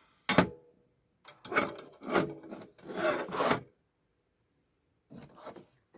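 A sharp knock, then three rasping scraping strokes and a fainter fourth near the end: a tool scraping and working on a TV power-supply circuit board while a component is replaced.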